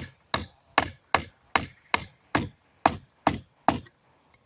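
Hammer blows on a pallet plank, a steady run of about ten strikes at two to three a second that stops shortly before the end: knocking old nails out of the wood.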